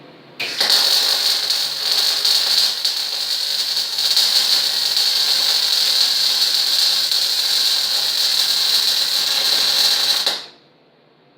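MIG welder laying a continuous bead on steel: a steady crackling sizzle that starts about half a second in, runs for about ten seconds and cuts off suddenly. The welder's settings are right, and the result is a nice, solid bead.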